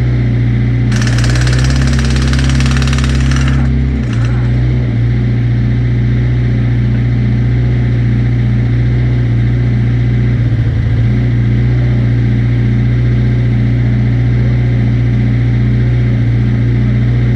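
Large diesel truck engine idling steadily. About a second in, a loud hiss cuts in for nearly three seconds, then stops abruptly.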